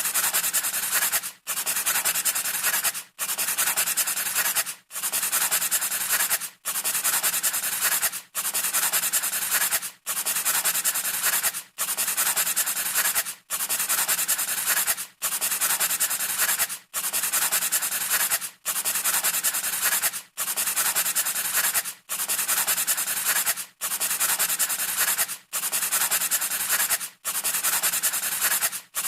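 A scratchy rubbing noise, like something abrasive drawn steadily across a surface, repeating in identical stretches of about 1.7 seconds, each cut off by a brief silence, as a looped sound effect.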